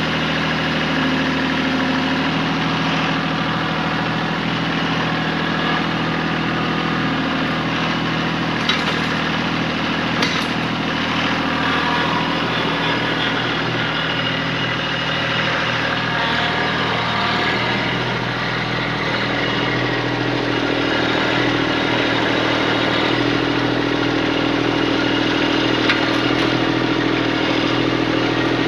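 Kubota tractor's diesel engine running steadily, its note changing about two-thirds of the way through as the revs or load shift. A few sharp knocks sound over it, two close together about a third of the way in and one near the end.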